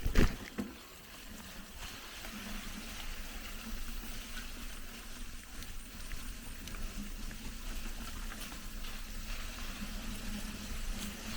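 Steady rushing of flowing water, a stream or waterfall. Two sharp knocks come right at the start.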